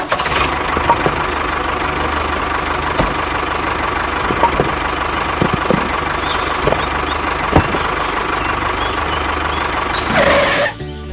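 Small motor of a DIY model tractor running steadily, with a constant whine and a few light clicks; it cuts off suddenly near the end.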